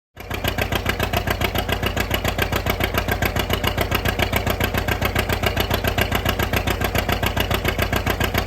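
Tractor diesel engine running steadily, with an even pulsing beat of about eight or nine throbs a second.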